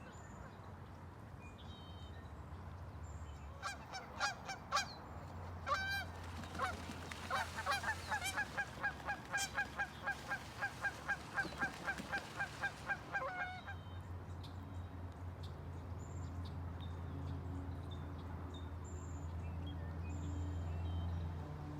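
A large waterfowl honking: a few separate calls, then a fast, regular run of honks about three a second for some six seconds before it stops. A steady low hum and faint high bird chirps sit underneath.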